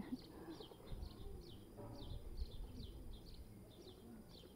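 Faint birdsong: a small bird repeating short, high, falling chirps two or three times a second, with a light knock about two seconds in.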